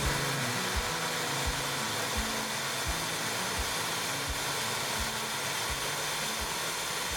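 Steady steam hiss from a small live-steam Shay locomotive, with soft low thumps at an even beat about every 0.7 seconds.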